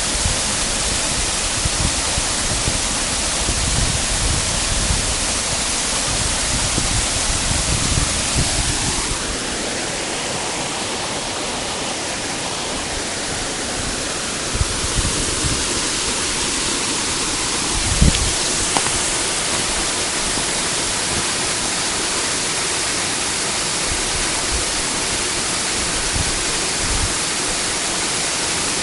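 Shiramizu waterfall rushing: a steady, dense roar of falling water, with a brief thump about eighteen seconds in.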